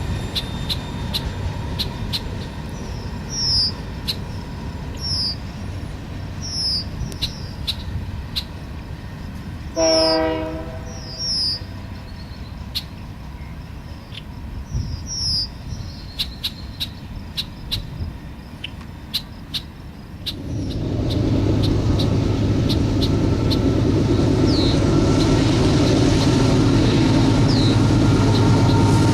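Freight train running past with a low rumble and repeated wheel clicks, a short pitched note sounding once about ten seconds in. About twenty seconds in the sound grows much louder and stays steady as the train comes close.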